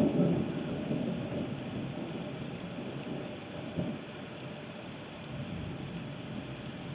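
Thunder rumbling, loudest in the first second and then dying away, over steady rain.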